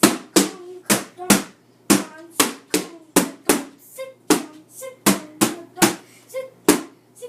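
Taiko drum practice: sticks striking the drum in a steady rhythm of about two to three hits a second.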